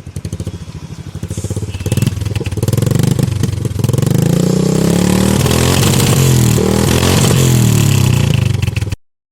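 Modified 2008 Royal Enfield Bullet Electra's single-cylinder engine through a mindblowingly loud exhaust, idling with an even beat and then revved from about two seconds in, its pitch rising and falling over and over. The sound cuts off suddenly near the end.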